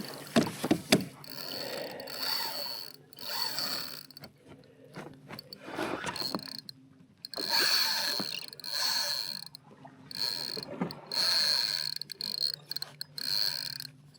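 Fishing reel's drag buzzing in on-and-off stretches as a hooked snook pulls line against it, with the reel's gears ratcheting. A few sharp knocks sound in the first second.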